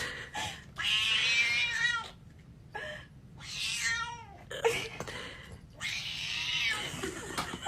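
A cat yowling in three drawn-out, wavering calls with short pauses between them.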